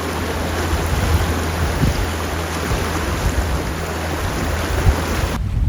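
Steady rushing of a fast river, with wind buffeting the microphone as a low rumble. The hiss of the water cuts off abruptly near the end while the wind rumble carries on.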